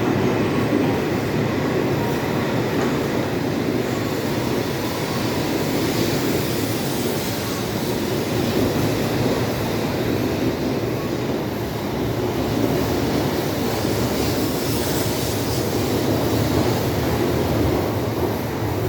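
E7 series Shinkansen train pulling out of the platform, its cars rolling past with a steady, even rumble.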